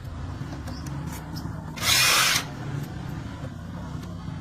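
A power tool runs in one short burst about two seconds in, over a steady low hum.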